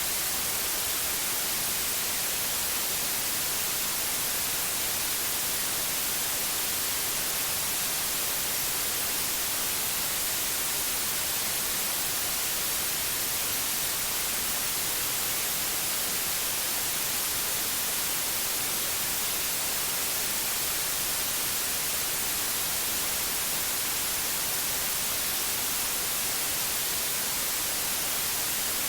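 Steady synthetic white noise, an even hiss that is strongest in the high frequencies, with no change or interruption.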